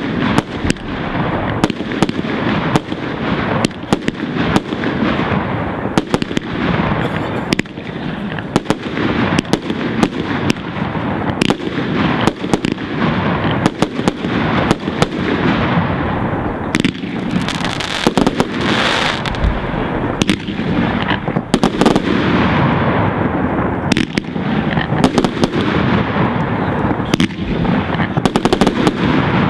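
Aerial fireworks display: a dense, unbroken run of shell bursts and bangs, many a second, with crackling between them.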